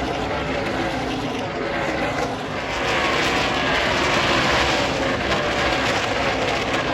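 NASCAR truck V8 engines at full throttle passing on the track, the pitch falling as they go by, and growing louder about two and a half seconds in as more trucks come past.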